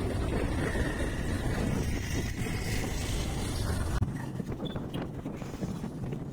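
Wind rushing over the microphone of a moving motorcycle, over a steady engine and road rumble; the low rumble drops away about two-thirds of the way through.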